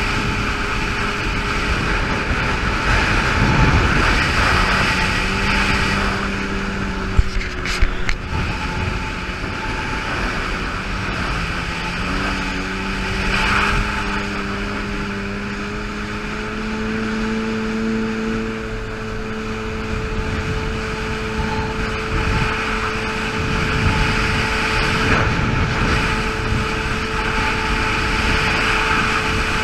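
Yamaha GP800 jet ski's two-stroke twin engine running under way over a steady rushing noise, its note dipping about eleven seconds in and then climbing again as the throttle changes. A couple of sharp knocks come about seven and eight seconds in.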